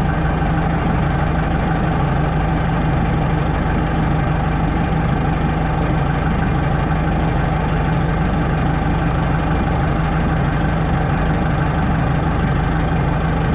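Tractor diesel engine running steadily at an even speed, with no change in pitch.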